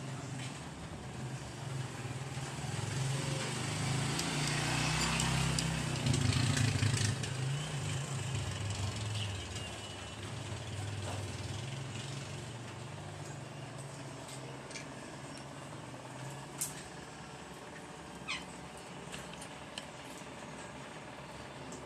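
Engine hum of a passing motor vehicle, growing louder to a peak about five to seven seconds in and then fading away. A few short clicks and brief high chirps come near the end.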